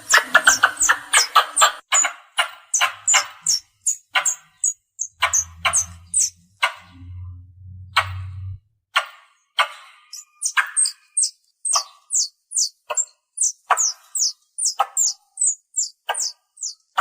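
Squirrel calling: a long run of short, sharp chirps, about two to three a second, each a quick high note that drops in pitch over a sharp click. A low hum sounds under the calls from about five seconds in to about eight and a half.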